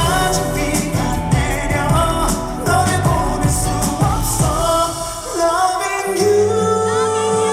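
Live pop music with singing over a steady beat, recorded from the audience. About five seconds in the beat drops out, leaving a sustained held chord.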